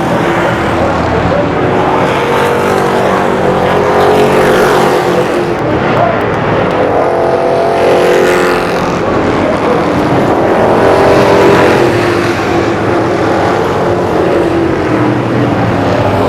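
Several street stock race cars running flat out on a short oval, engines swelling and fading in pitch as the field passes by, twice.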